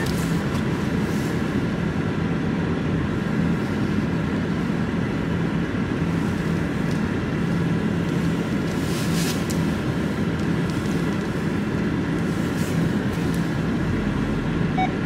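Vauxhall Zafira's engine running steadily at low speed, heard from inside the cabin as the car creeps into a parking space.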